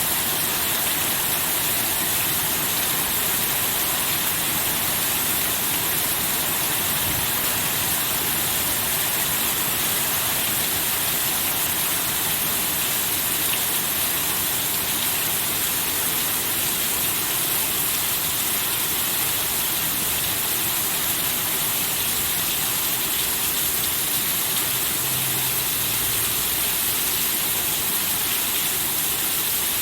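Steady heavy rain falling, an even rushing hiss.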